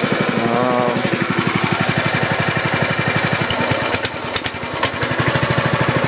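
Honda 5.5 hp horizontal-shaft single-cylinder engine running steadily in an even, rapid firing beat, a few minutes after a cold start from sitting all winter; it runs well.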